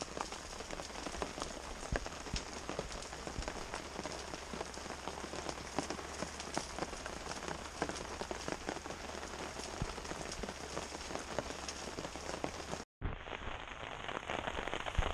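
Heavy rain falling on a tarp, a dense steady hiss full of small individual drop hits. It breaks off for a moment about thirteen seconds in and then carries on, duller.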